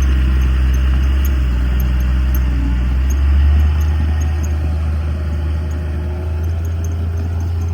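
Heavy diesel engine of earthmoving machinery running with a steady low drone. About three and a half seconds in, its note swells briefly and shifts lower, then it settles again.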